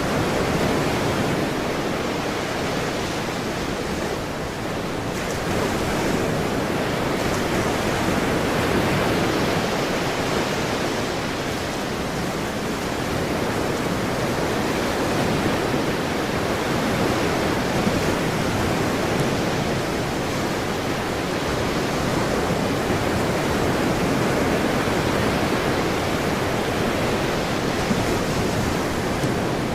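Ocean surf washing in a continuous rush, swelling and easing slowly every several seconds.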